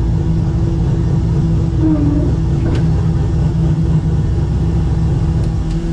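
Mustang race car's engine idling steadily with an even, unchanging pitch, heard from inside the stripped cabin.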